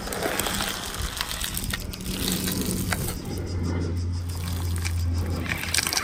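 Plastic popcorn tub and bag rustling as it is pushed against a car tyre. A steady low engine hum comes in about three seconds in, with the tyre pressing on the tub but not yet crushing it.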